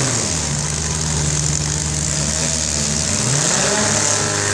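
Demolition derby car engines idling loudly, with one engine revving up and back down about three and a half seconds in.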